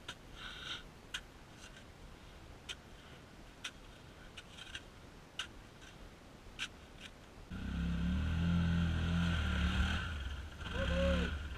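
Scattered faint clicks and ticks, then about seven and a half seconds in a vehicle engine comes in suddenly and runs steadily.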